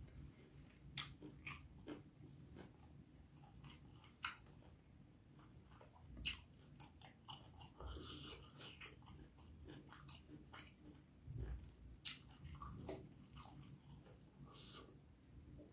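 Close-up chewing and wet mouth clicks of someone eating beef curry and rice, with irregular smacks, a few of them louder.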